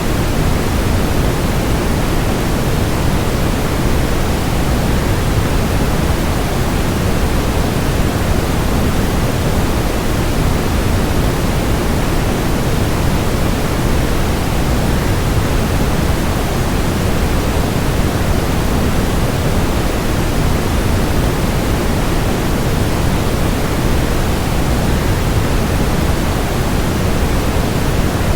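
Steady rush of a waterfall blended with white noise: an even, unbroken hiss, heavier in the low end.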